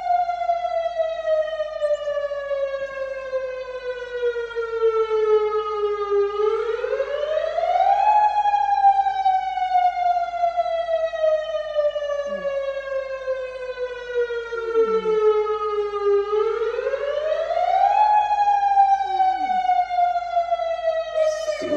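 Outdoor tsunami warning siren sounding for a drill: a wailing tone that falls slowly in pitch for several seconds, then climbs quickly back up, repeating about every ten seconds.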